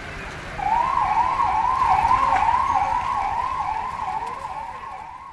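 Police vehicle's electronic siren in a fast yelp, a rising wail repeating about twice a second, starting about half a second in and fading away near the end.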